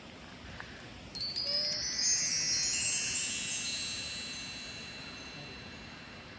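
A shimmering run of many small metal chimes, struck about a second in and then ringing down until they fade out.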